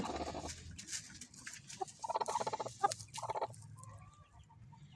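Broody hen clucking: one call right at the start, then a few short bursts of clucks from about two to three and a half seconds in.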